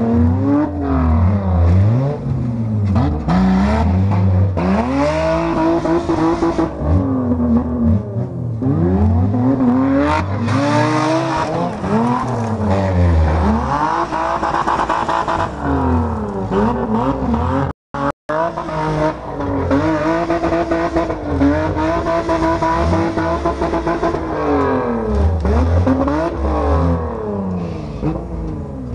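Demolition derby cars' engines revving hard over and over, several overlapping, their pitch rising and falling every second or two. The sound cuts out twice, briefly, just past the middle.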